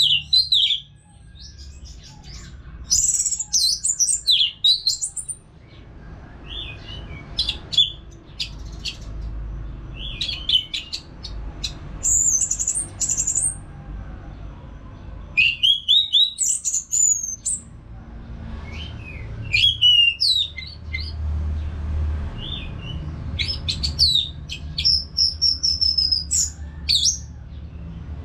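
Orange-headed thrush singing vigorously, in high, quickly varied whistled and chattering phrases that come in bursts every two to three seconds with short pauses between.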